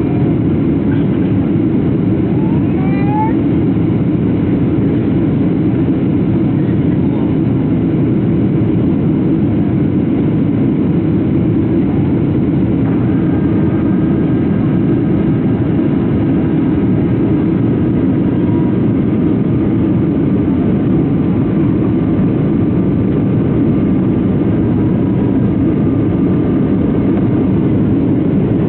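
Steady cabin noise inside a Boeing 737-700 in flight: the even roar of airflow and its CFM56 jet engines. A few faint higher whining tones join about halfway through.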